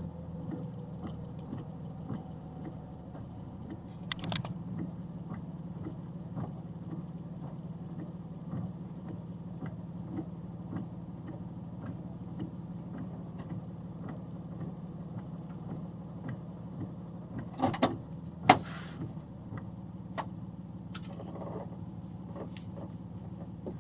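A vehicle engine idling with a steady low hum. A few sharp clicks or knocks cut through it, two loud ones close together about three-quarters of the way through.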